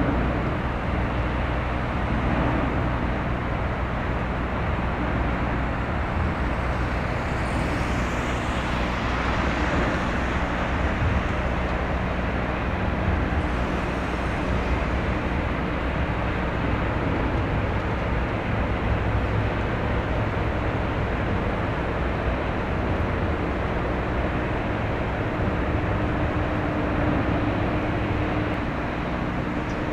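Steady low drone of a passing container ship's diesel engine, with several constant hum tones under a wash of traffic-like noise. One higher hum tone grows stronger near the end.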